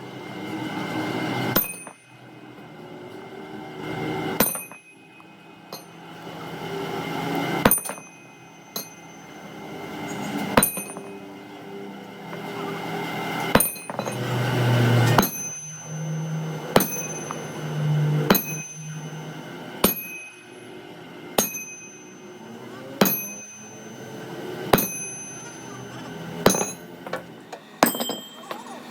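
A hammer striking steel in a steady series of single blows, about one every second and a half, each leaving a short high metallic ring.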